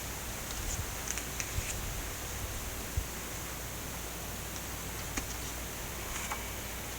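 Steady background hiss with a few faint rustles and soft taps from the pages of a photo book being handled and turned, including a low thud about three seconds in.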